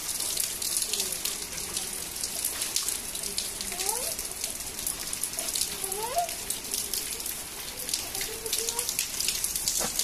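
Heavy rain falling steadily, with many sharp individual drop impacts heard over the hiss of the downpour.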